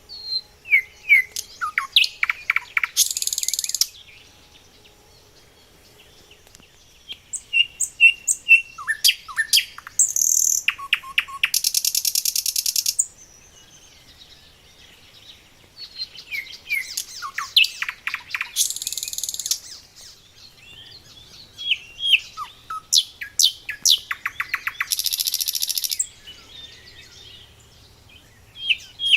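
A songbird singing in repeated bouts: quick sharp notes sliding down in pitch, each bout ending in a fast buzzy trill, with short pauses between bouts.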